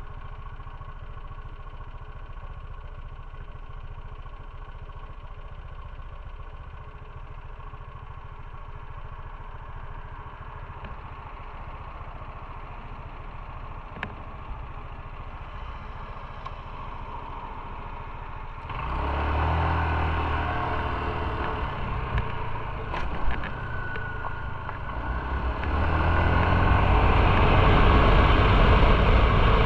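Motorcycle engine idling steadily, then about two-thirds of the way through it pulls away and grows much louder, stepping up again near the end as it accelerates.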